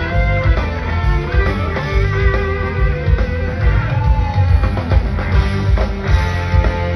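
Rock band playing an instrumental jam: electric guitar lead with held, sustained notes over bass and drums.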